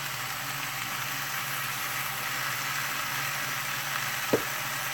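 Chicken pieces sizzling steadily in a pot on the stove, with a single sharp knock about four seconds in.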